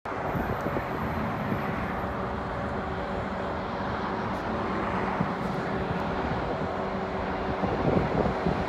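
Approaching CN diesel freight locomotives: a steady low rumble with a faint engine drone, growing a little louder near the end as the train nears.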